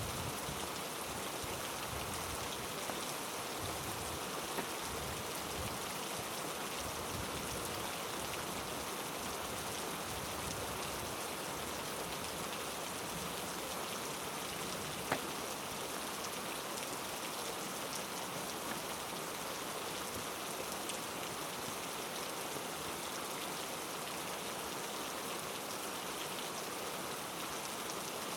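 Heavy rain falling steadily on rainforest foliage, an even hiss with a few scattered sharp drip-like clicks; the loudest comes about halfway through.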